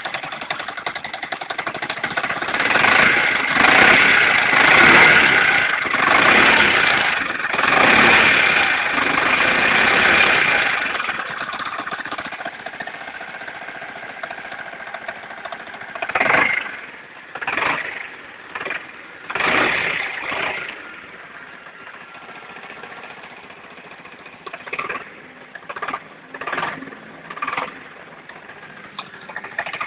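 Small Econo Power C90-style motorcycle engine running, revved up several times over the first ten seconds, then settling to a lower idle with a few short blips of the throttle. The engine is making a noise the owner has heard since redoing the clutch.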